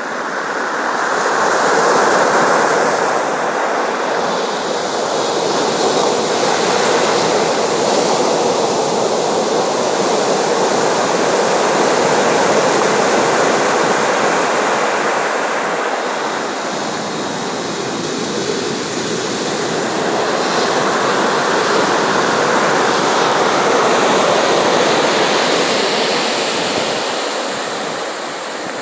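Sea surf breaking and washing ashore: a steady rushing noise that swells and eases slowly, every ten seconds or so.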